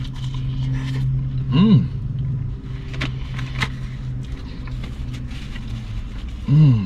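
Car engine idling, a steady low hum heard inside the cabin. Twice a person hums a short 'mm' of enjoyment that rises and falls in pitch, once about a second and a half in and again near the end, and there are a few light clicks of food wrappers.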